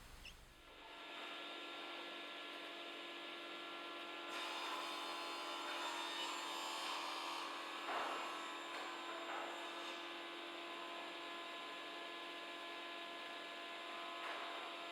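Woodworking jointer-planer machine running with a steady motor hum that comes up about a second in. From about four to ten seconds it gets louder and noisier as a board is planed, with a brief knock near eight seconds.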